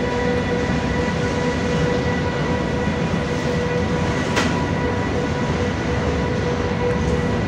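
Freight train of high-sided open coal wagons rolling past: a steady rumble of wheels on rail with a steady high hum held on one pitch, and a single sharp click about four seconds in.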